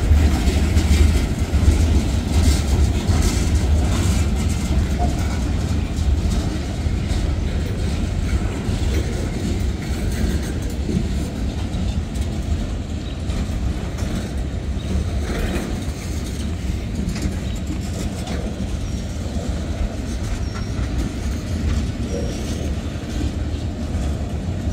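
Freight cars rolling past close by: a steady low rumble of steel wheels on rail, with clicks as the wheels pass over rail joints.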